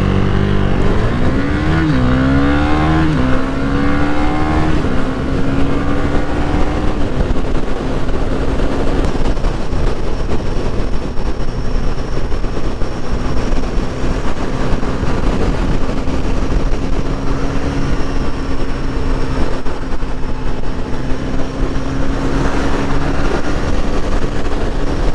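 Motorcycle engine accelerating through three upshifts, its pitch climbing and dropping at each change over the first five seconds, then holding a steady cruise, with wind rushing over the helmet-cam microphone.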